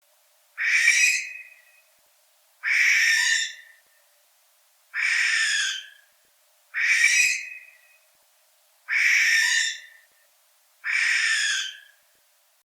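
Barn owl screeching: six harsh, hissing screams, each about a second long, spaced about two seconds apart.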